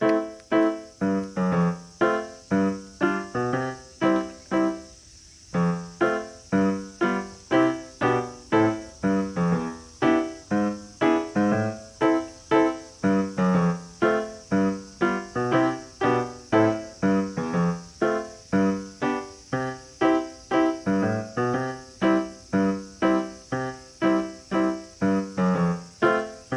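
Background music: piano playing a steady run of notes, about two a second, with a brief pause about five seconds in.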